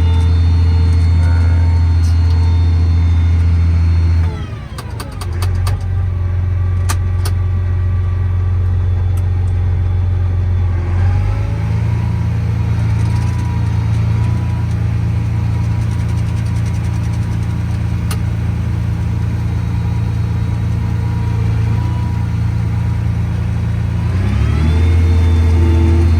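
Combine harvester engine running with a loud steady hum. Its speed drops about four seconds in, picks up again around eleven seconds, and shifts once more near the end.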